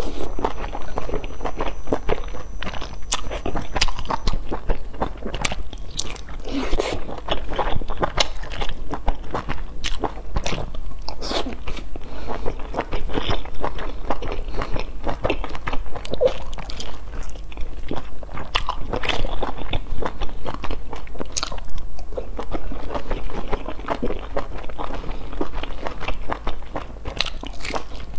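Close-miked eating sounds of a person biting and chewing soft steamed dumplings dipped in sauce: a dense, continuous run of small smacking mouth clicks.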